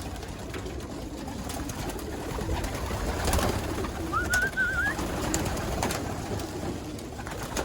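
A loft full of young racing pigeons cooing, with scattered clicks and a short wavering whistle a little past four seconds in.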